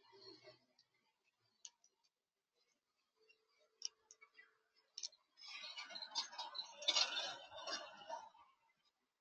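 Birds at a feeder: scattered sharp clicks and taps, then about three seconds of dense rustling and clattering with many clicks.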